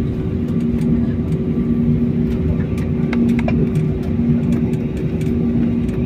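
Steady drone of a jet airliner's cabin on the ground after landing, with a constant low hum and a few faint light clicks and rattles.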